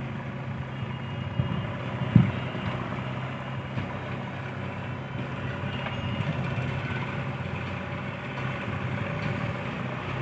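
Diesel engine of heavy machinery running steadily, with one sharp knock about two seconds in.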